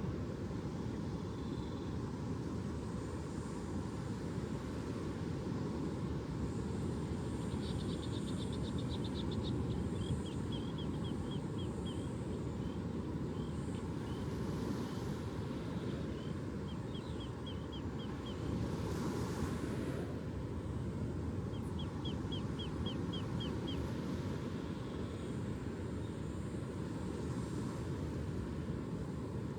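Steady low rushing outdoor ambience with a small bird's quick trilled calls, rapid runs of high repeated notes, coming in several times.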